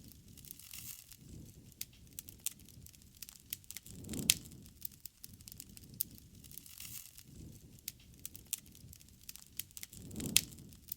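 Wood fire crackling, with a steady scatter of sharp snaps and pops over a low rush of flames; two louder pops about four and ten seconds in.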